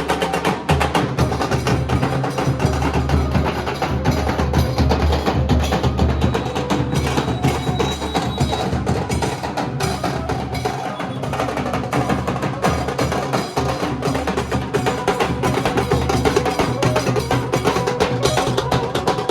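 Nasik dhol drumming: large barrel drums struck with sticks in a fast, dense, continuous beat.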